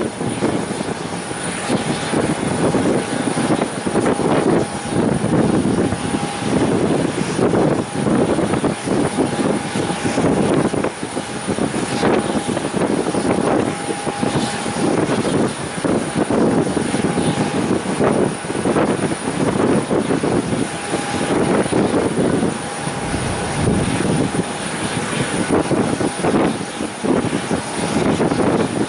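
Aircraft engine noise, a continuous loud roar that wavers irregularly in level, with a faint higher tone coming and going.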